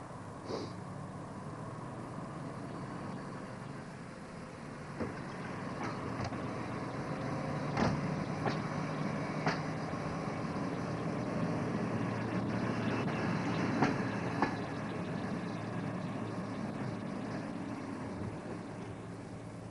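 Passenger coaches rolling slowly past a platform: a low, steady rumble that swells through the middle and eases off near the end, broken by several sharp clicks of the wheels over rail joints.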